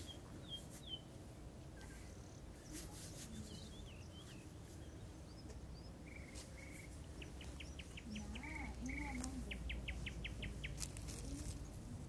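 Wild songbirds chirping outdoors, with short high chirps and two quick rattling trills in the second half, over a steady low background rumble.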